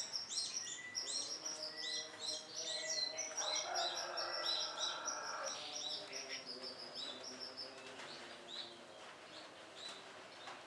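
Canary chirping: a quick run of short, high repeated notes that thins out and fades after about eight seconds.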